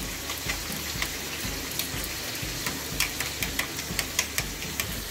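Chicken drumsticks shallow-frying in a little oil in a kadhai: a steady sizzle with many small pops and crackles.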